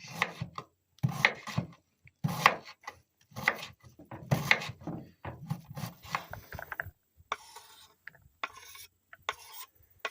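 Tight rubber gloves being worked onto large hands: a run of irregular rubbing, rasping strokes that thin out after about seven seconds.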